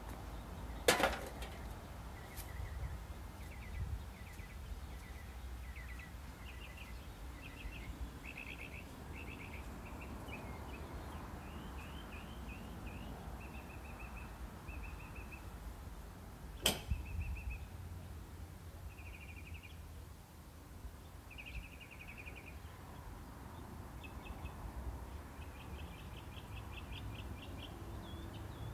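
Birds chirping in short repeated phrases. Two sharp knocks cut in, one about a second in and one about halfway through, over a low steady rumble.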